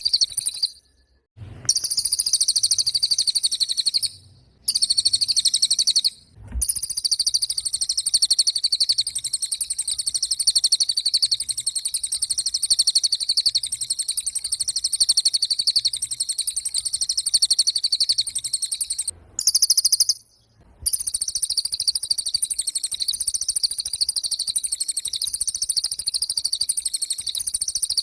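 A cililin songbird sings a continuous, very fast, high-pitched trill. It breaks off briefly a few times, then resumes.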